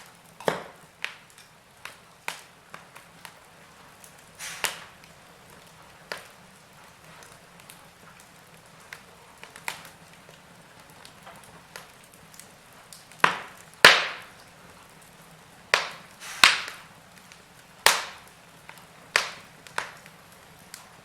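Log fire crackling: irregular sharp pops and snaps of burning wood over a faint low hiss, with a run of louder pops in the second half.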